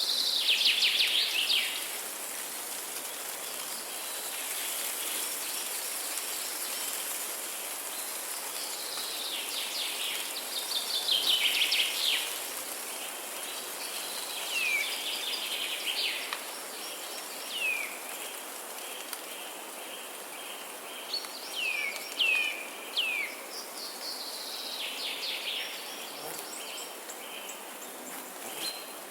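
Wild birds singing: fast falling trills near the start and again about ten seconds in, then single falling whistled notes repeated every few seconds. Underneath is a steady high hiss.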